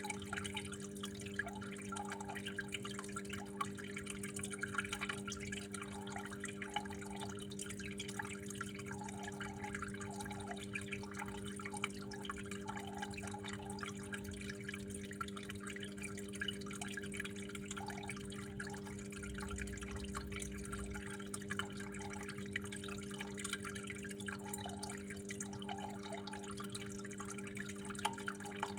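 Water trickling and dripping steadily, with small irregular splashes, over a constant low hum.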